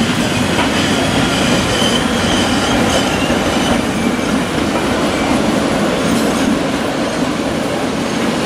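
Rhaetian Railway metre-gauge train, an electric locomotive hauling passenger coaches and open observation cars, passing slowly on a curve: a steady rumble of wheels on rail, with a faint high wheel squeal about two to three seconds in.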